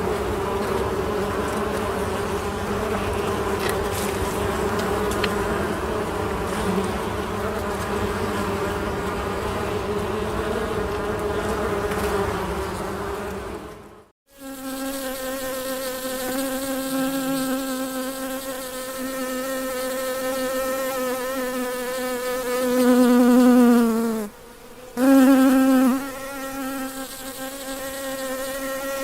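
Honey bees buzzing: a dense, wavering buzz that cuts off about halfway through. A single clear, steady buzz follows, which dips slightly in pitch and grows loud, as if close to the microphone, then breaks off briefly and comes back loud.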